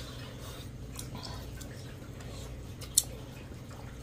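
Mouth sounds of eating: chewing and smacking as rice and curry are eaten by hand, with small clicks and one sharper click about three seconds in.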